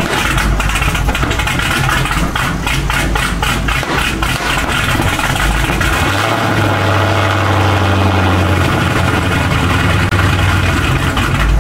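Dodge Hellcat's supercharged 6.2-litre Hemi V8 idling loudly as it warms up on its first run after sitting in winter storage. About six seconds in, the idle note changes and turns steadier and smoother.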